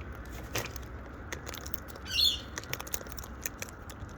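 A single short bird squawk about two seconds in, over scattered light clicks and ticks.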